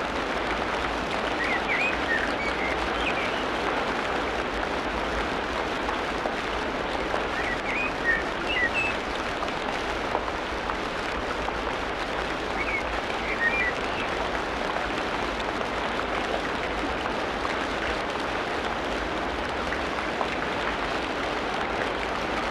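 Tropical rainforest ambience: steady rain falling on foliage, with a bird chirping in three short bursts, about 2, 8 and 13 seconds in.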